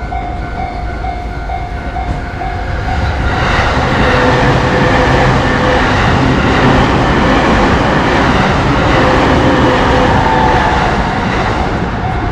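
Japanese level-crossing warning bell ringing in a steady repeating clang. About three and a half seconds in, a Tobu Tojo Line electric train passes through the crossing, its rumble and wheel noise drowning the bell for about eight seconds. The bell is heard again near the end.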